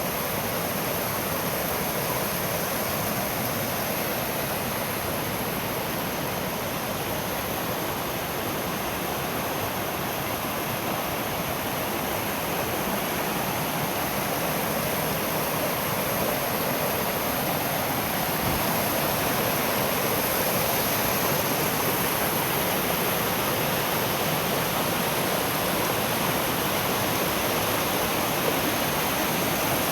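Mountain stream rushing through a rocky gorge: a steady, dense roar of falling and tumbling water that grows slightly louder in the second half.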